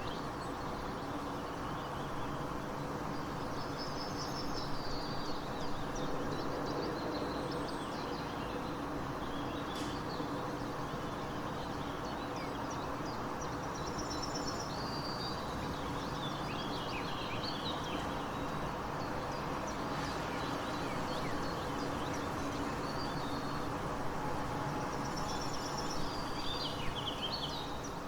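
Outdoor nature ambience: a steady background hiss with small songbirds chirping and trilling in clusters, a few seconds in, about halfway through and again near the end.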